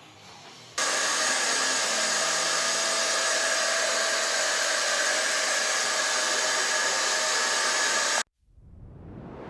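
Loud, steady whirring of a motor-driven fan or blower with a constant whine, switching in abruptly and cutting off abruptly after about seven seconds.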